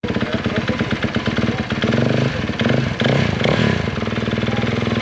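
Motocross bike engine running in the pits, blipped up a few times about two to three and a half seconds in, then settling back to a fast, even beat.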